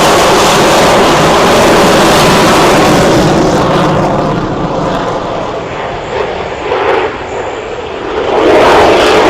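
Aircraft flying by at an air show: a very loud engine noise that eases off for a few seconds in the middle and builds up again near the end.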